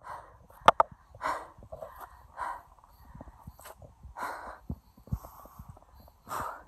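A woman breathing hard, with heavy puffs of breath every second or two as she climbs a long flight of steps in the heat, and a few sharp clicks between them.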